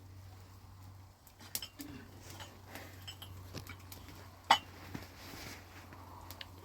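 Scattered light clicks and clinks of hard objects being handled, with one sharper knock about four and a half seconds in, over a steady low hum.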